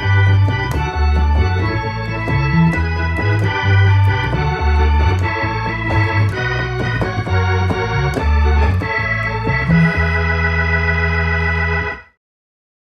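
Organ music: held organ chords over a bass line that changes note about twice a second, with light sharp ticks on top. It cuts off suddenly near the end.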